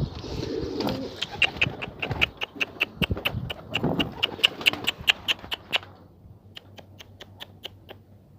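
Pigeons in a rooftop loft being opened up, with a quick, even run of sharp ticks, about four a second, that slows and fades after about six seconds.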